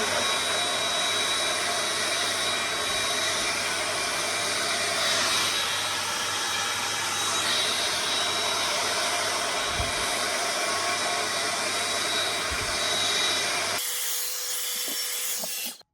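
Bombae Hairess 3-in-1 hot air brush dryer running steadily: a loud rush of air with a high motor whine and a low hum. About 14 seconds in it drops to a much quieter sound, and the sound cuts off just before the end.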